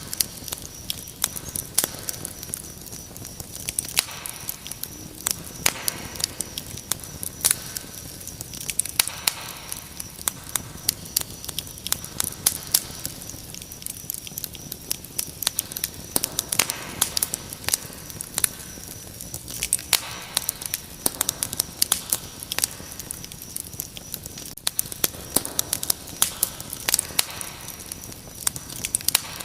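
Wood fire crackling, with many irregular sharp pops and snaps, over a steady high cricket trill.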